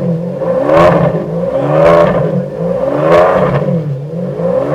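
Ferrari P4/5 by Pininfarina's Enzo-based V12 being blipped while stationary: the revs rise sharply and fall back about once a second, three times, with another rise starting near the end.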